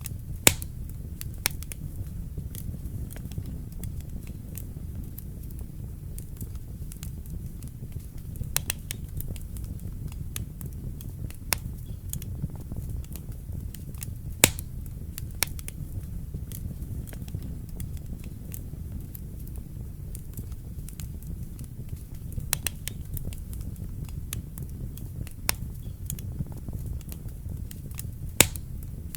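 Wood fire crackling in a fireplace: a steady low rumble of the flames with irregular sharp pops, the loudest about half a second in, around the middle, and near the end.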